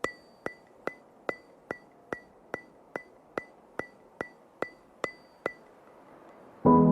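A regular dry ticking, about two and a half sharp ticks a second with a short bright ring on each, stopping about five and a half seconds in. Near the end, soft keyboard music starts.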